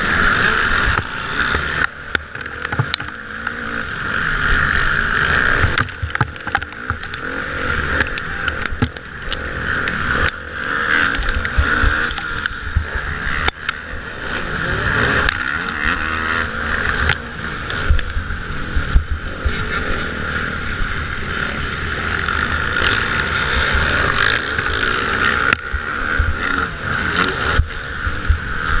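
Motocross bikes racing, their engines running hard in a steady buzz whose loudness swells and dips as the bikes pass.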